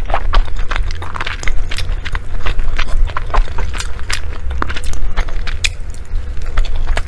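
Close-miked wet chewing of sticky glutinous rice and meat: irregular smacking mouth clicks, several a second, over a steady low rumble.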